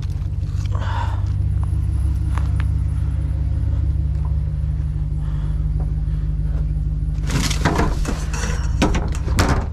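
Truck engine idling steadily with a low hum. Near the end come a few seconds of clattering knocks and rattles.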